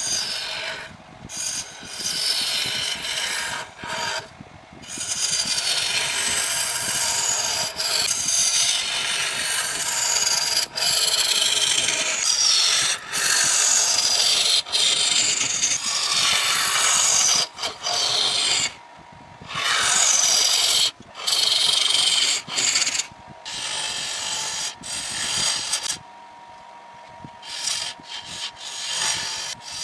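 Wood being worked on a lathe: a tool scraping and cutting the spinning wood in passes of a few seconds, broken by short pauses.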